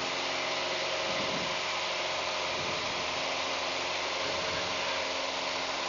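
Van's RV-4 light aircraft's piston engine and propeller running steadily at climb power just after takeoff, heard from inside the cockpit.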